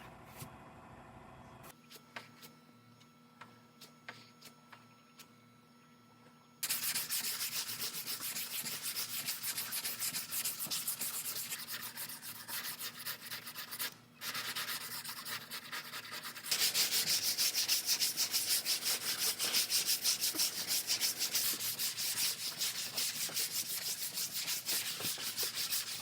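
Sanding on the aluminum rear door of a car, a fast rhythm of scraping strokes that starts about six and a half seconds in, stops briefly near the middle, then comes back louder. Before it there are only a few faint clicks and taps.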